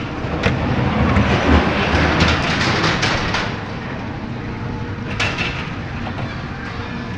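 Ghost train ride car rumbling and clattering along its track, loudest in the first few seconds with sharp clicks and knocks, then running on more steadily.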